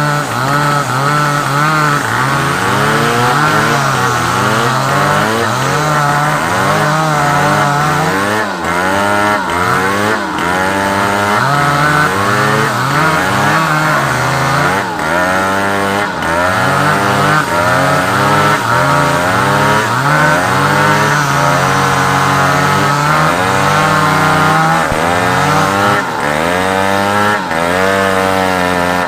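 Large two-stroke chainsaw cutting through a log of African wood, running hard with its engine pitch sagging under load and rising again, over and over.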